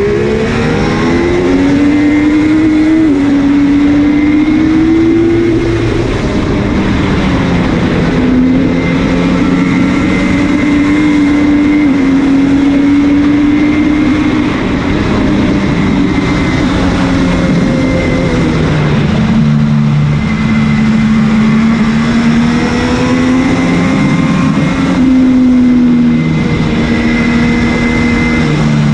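MV Agusta F3's three-cylinder engine running hard on track, its pitch climbing and stepping at gear changes near the start, then holding fairly steady with small rises and falls, over wind rushing past the bike-mounted camera.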